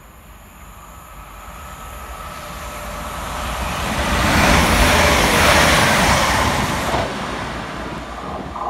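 Transport for Wales Class 197 diesel multiple unit running through the station at speed without stopping. The rushing wheel-on-rail noise builds as it approaches, is loudest about five seconds in as it passes, then drops away sharply and fades as it recedes.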